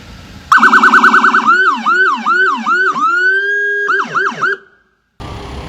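American police car's electronic siren cycling through its tones: a fast warble, then a run of quick sweeping yelps, a rising tone held for about a second, and a few more rapid sweeps before it cuts off suddenly.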